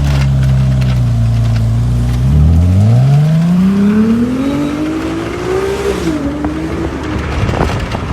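Car engine held at a steady low speed, then accelerating, its pitch rising steadily for about three seconds before levelling off.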